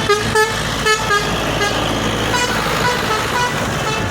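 Vehicle horn sounding a run of short toots at changing pitches, over the steady low rumble of passing engines.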